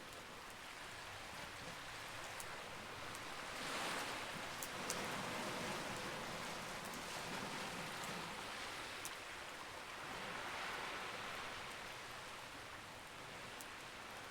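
Campfire crackling with a scatter of sharp high pops, over a steady rushing wash of sea waves that swells twice.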